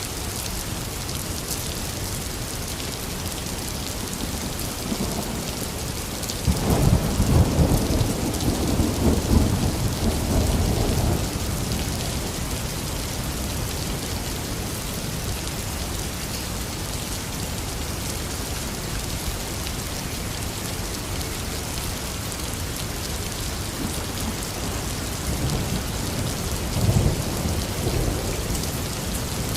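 Heavy rain falling steadily, with a rolling thunderclap about six seconds in lasting several seconds, and a fainter rumble of thunder near the end.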